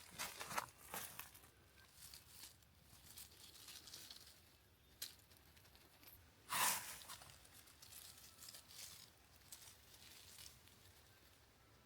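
Intermittent rustling and crinkling, with a single louder rustle about six and a half seconds in.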